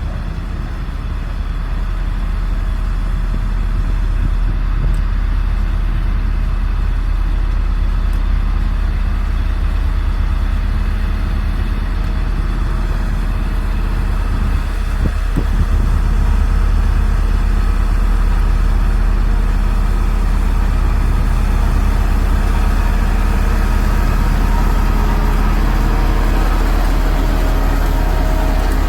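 Diesel engine of heavy construction machinery running steadily with a deep, low hum, growing louder about halfway through after a short knock.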